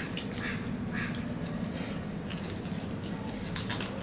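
Close-miked eating sounds of fried rice and fried chicken eaten by hand: scattered soft, wet chewing clicks and lip smacks, with a short run of louder smacks near the end, over a steady low hum.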